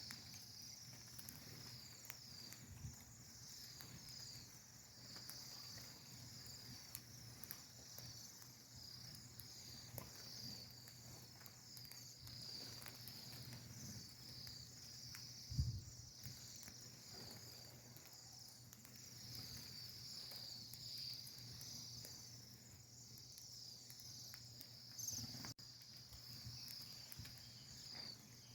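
A flock of small birds chirping together in a tree, a faint, continuous chorus of many overlapping high-pitched chirps. A single low thump about halfway through.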